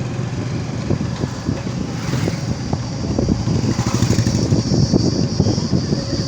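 Motorcycle engine running while riding along a road, with wind buffeting the microphone in an uneven rumble.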